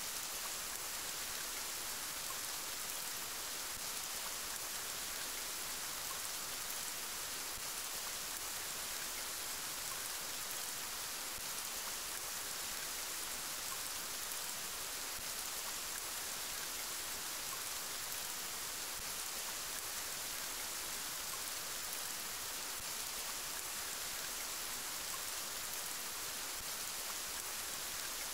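Steady rain: an even, unbroken hiss, brightest in the high range, with no change in strength.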